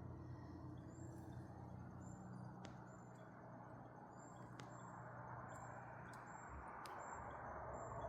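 Faint outdoor ambience: short, soft, high chirps repeating about once a second over a low, steady rush, with a few sharp clicks.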